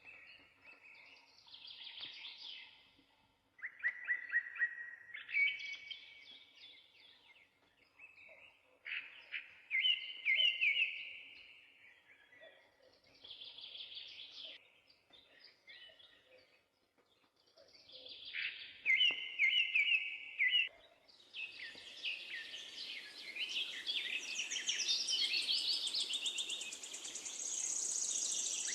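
Songbirds singing in short chirping phrases a few seconds apart. Past the two-thirds mark it becomes a denser, continuous chorus over a steady hiss.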